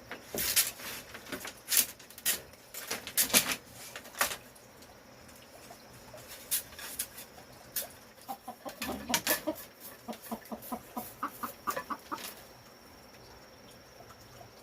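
Chickens clucking, with sharp scuffling knocks in the first few seconds and then a quick run of short clucks and squawks in the middle stretch.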